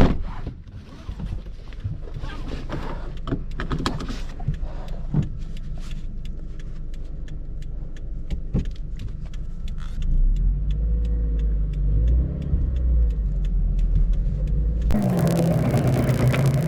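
A Subaru BRZ's flat-four engine running low and slow, heard from inside the car as it creeps along on a blown-out rear tire, with a sharp knock at the start and a run of regular ticks and knocks. The engine note picks up and wavers about ten seconds in, and the car gets suddenly louder near the end.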